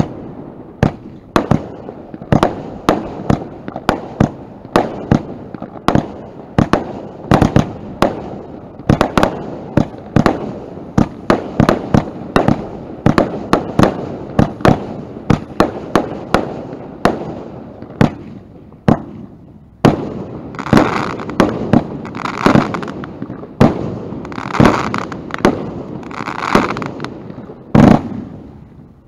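Consumer firework cake firing right beside the microphone: a steady run of sharp shots, about two to three a second. About two-thirds of the way in it changes to a few longer, fuller volleys, and it stops just before the end.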